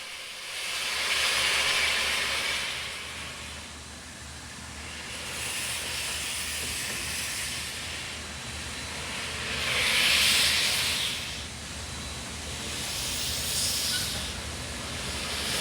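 Coal-fired narrow-gauge steam locomotive venting steam: a hiss that swells and fades several times, loudest about ten seconds in, over a low steady hum.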